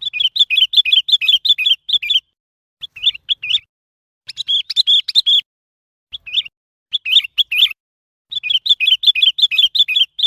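Sooty-headed bulbul calling: phrases of quick, bubbly chirps, about six runs of notes broken by short pauses, the longest near the start and at the end.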